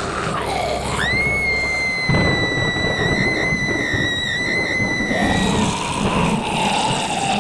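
A high-pitched scream that starts about a second in, holds one piercing pitch for about four and a half seconds and then fades, over a steady noisy background.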